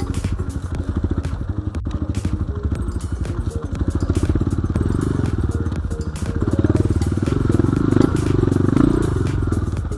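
Off-road dirt bike engine running under throttle while riding, with a rapid even firing pulse that swells a little louder about two-thirds of the way in.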